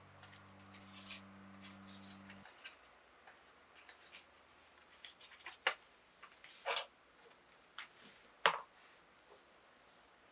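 Small handling sounds: scattered clicks, taps and rustles of objects being picked up and put down, with three sharper clicks in the second half. A low steady hum underneath cuts off about two seconds in.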